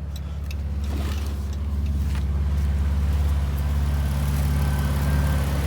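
Chrysler Town & Country minivan's 3.6-litre V6 idling steadily, with a few light clicks in the first couple of seconds.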